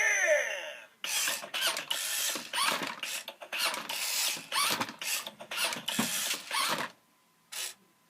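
Toy truck's plastic mechanism clicking and ratcheting in an irregular run of scrapes and clicks for several seconds, stopping a second before the end apart from one short burst.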